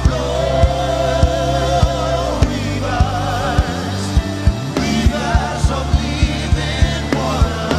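Live gospel worship band: sustained keyboard and bass chords under long, wavering sung notes, with a steady kick-drum beat that doubles its pace about halfway through.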